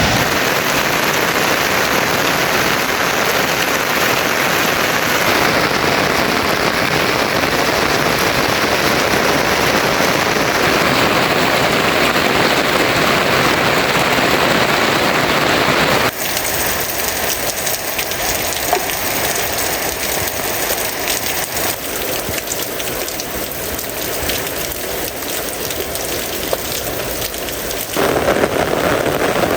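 Heavy rain falling in a dense, steady hiss. About halfway through it changes abruptly to a thinner, slightly quieter sound, and near the end it grows fuller again.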